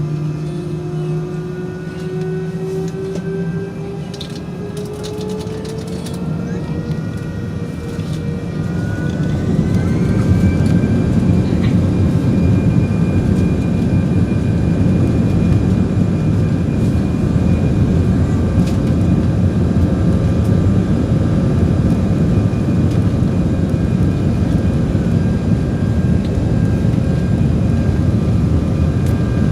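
Airbus A319's CFM56 jet engines spooling up to takeoff thrust, a whine rising in pitch over the first ten seconds or so, then a loud steady roar and rumble through the takeoff roll.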